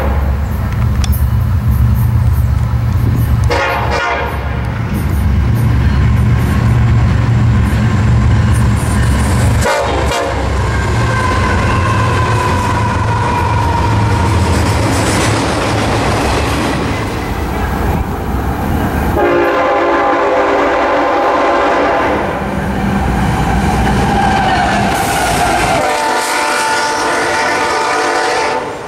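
Union Pacific 1995, a Chicago & North Western heritage-painted SD70ACe diesel locomotive, passes close by with its engine's low, steady rumble and its horn sounding. The long train of trailer cars then rolls past with wheel clatter and squeal. More loud horn blasts come near the end.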